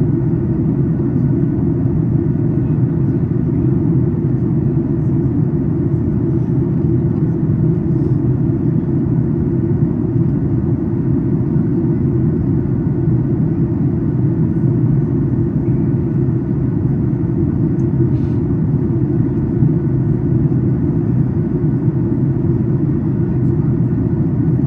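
Steady cabin noise of a Boeing 737 MAX 8 airliner in descent: a constant low rumble of airflow and engines, with no change throughout.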